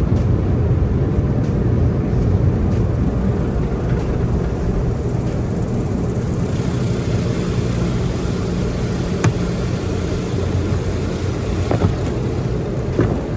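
Automatic car wash heard from inside the car: a steady low rumble of the wash machinery, joined about six seconds in by a hiss of water spray over the car.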